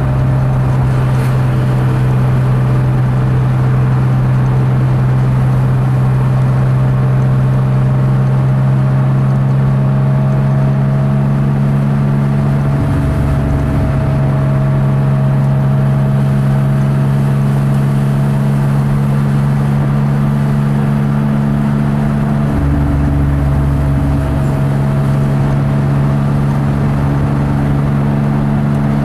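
1969 Porsche 911T's air-cooled flat-six engine running steadily at cruise, heard from inside the cabin. Twice the low part of the engine note changes briefly.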